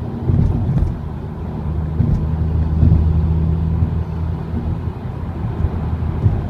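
Motor vehicle engine running steadily: a low drone with road rumble, swelling slightly a couple of times.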